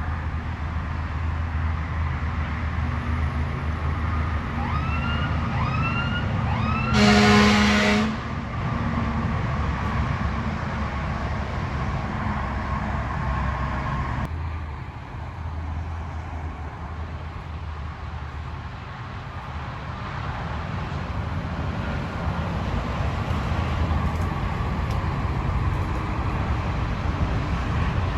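Emergency vehicle at a crash scene: three short rising siren chirps, then a loud horn blast of about a second. Idling engines and traffic rumble steadily underneath.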